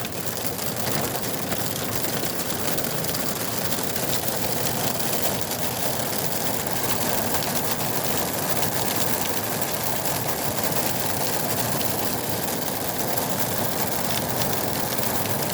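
Heavy rain mixed with hail falling steadily: a dense hiss with fine crackling ticks of the hailstones.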